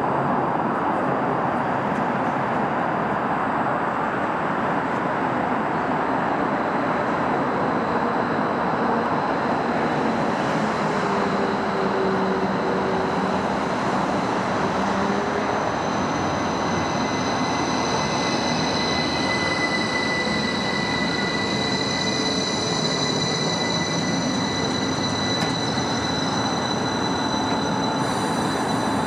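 Class 333 electric multiple unit running into the station platform. In the second half a steady high-pitched squeal rises above an even rushing noise.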